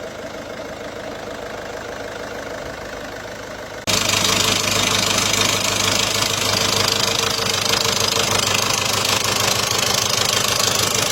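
Peugeot 1.6 HDi 16v diesel engine idling fairly quietly, then, about four seconds in, an abrupt switch to the same engine idling much louder with a heavy knocking clatter: the engine as it came in, a knock the title calls dangerous, with low oil pressure.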